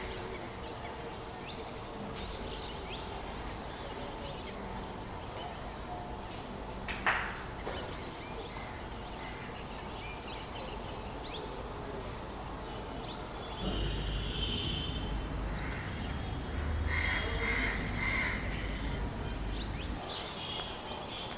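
Crows cawing over steady outdoor background noise, with one loud call about seven seconds in and a few shorter calls later on.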